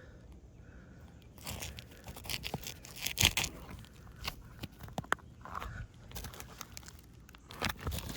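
Asphalt roof shingles being handled and lifted, with irregular crackling, scraping and crunching, loudest about three seconds in.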